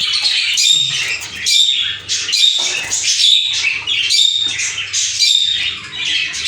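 Many caged budgerigars chattering and squawking together, a busy, continuous stream of short calls.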